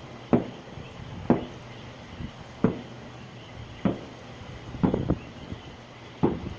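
Fireworks going off in the distance: single sharp bangs about once a second at uneven intervals, two of them close together about five seconds in.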